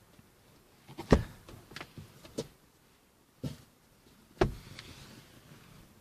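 Several separate short knocks and clicks with quiet between them, the loudest about a second in and another near four and a half seconds in.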